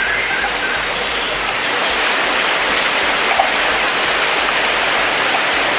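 Steady rain falling, an even hiss of rain on leaves and surfaces.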